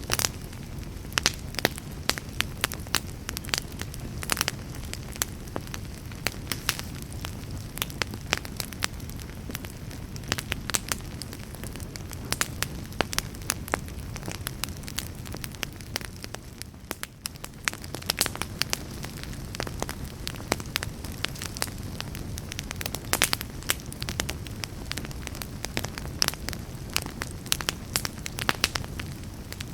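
Wood fire burning in a fireplace: logs crackling with frequent irregular sharp pops over a steady low rush of flame, briefly quieter about two-thirds of the way through.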